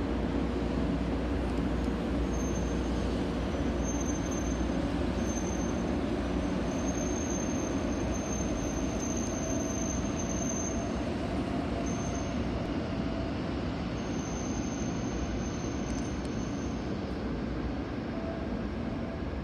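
A Shinkansen train running out of the station with a steady rumble that eases off slowly. A faint high whine comes and goes over it.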